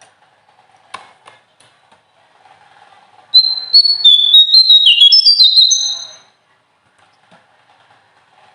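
A small songbird sings one loud burst of rapid, high, clear whistled notes for about three seconds, starting a little past three seconds in, with the pitch jumping from note to note. Faint clicks come before the song.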